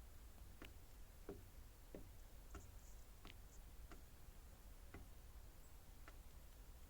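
Faint, irregular sharp clicks, roughly one or two a second, over near silence, with a few faint, very high short chirps in the middle.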